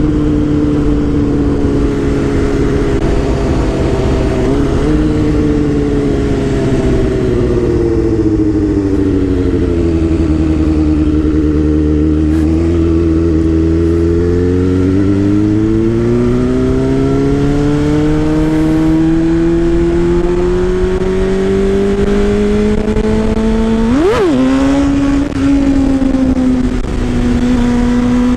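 Suzuki GSX-R600 K5 inline-four engine under way: the revs sink slowly for about ten seconds, hold low for a few seconds, then climb steadily for nearly ten seconds. Near the end there is one quick sharp blip of revs.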